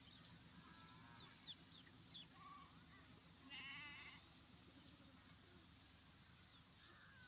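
Faint animal calls: one wavering, bleat-like call a little past the middle, with a few short chirps before it.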